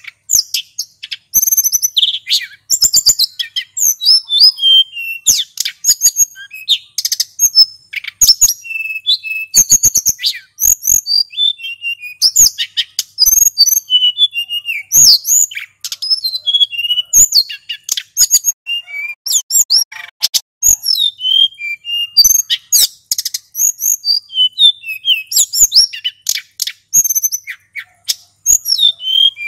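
Male sulingan gunung singing a long, continuous run of rapid high chirps, whistled notes and trills, with sharp clicks mixed in between phrases.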